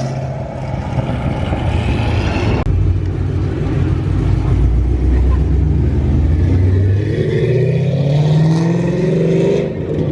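Car engine accelerating hard as the car drives off, revving with a break in the sound about a third of the way in, then climbing in pitch near the end.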